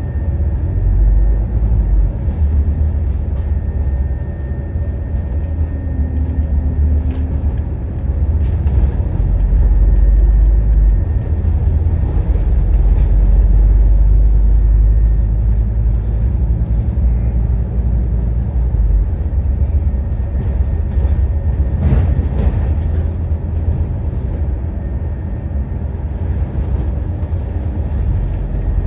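Scania N230UD double-decker bus's five-cylinder diesel engine running under way, heard from on board as a deep steady drone that swells for a few seconds around the middle. A few sharp knocks and rattles sound over it.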